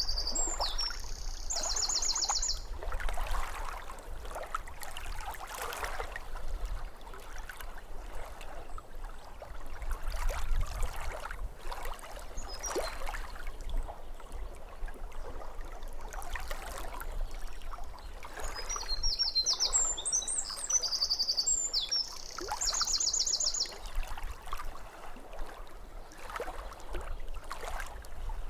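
Small waves lapping at a lake shore in a steady run of soft splashes, while a songbird sings twice: a phrase of high chirps ending in a fast trill right at the start, and again about two-thirds of the way through.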